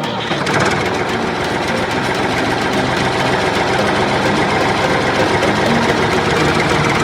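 A small motor running steadily with a fast, buzzing rattle.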